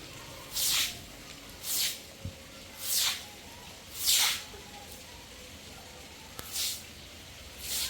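Six short hissing swish strokes, each falling in pitch, at roughly one-second intervals with a longer pause about halfway through.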